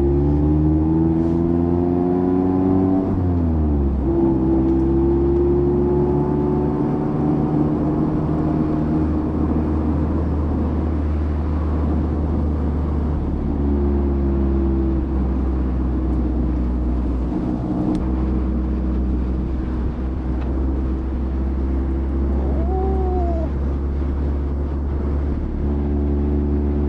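Mazda MX-5's 1.5-litre four-cylinder engine pulling through the gears on a winding road: revs rise for about three seconds, drop sharply at a gearshift, then hold at a fairly steady cruise with a second shift about eighteen seconds in, with road noise underneath.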